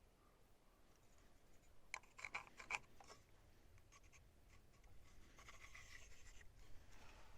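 Near silence, with a short cluster of faint clicks about two seconds in.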